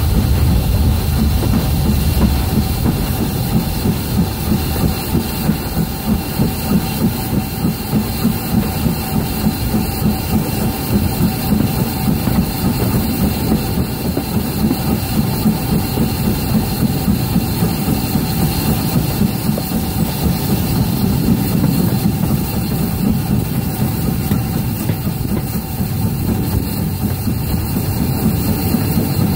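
Train running steadily, with a regular beat about twice a second.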